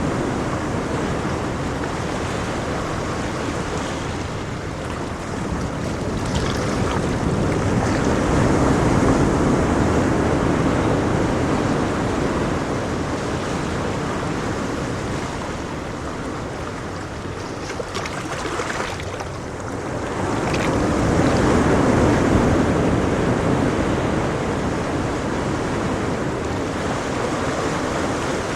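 Ocean waves breaking and washing on a shore, a continuous rushing surf that swells and eases slowly, with surges about 9 and 22 seconds in.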